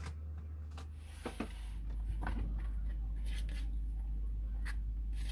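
Scattered light clicks and knocks, like utensils or dishes being handled, over a steady low hum that shifts lower and louder about a second in.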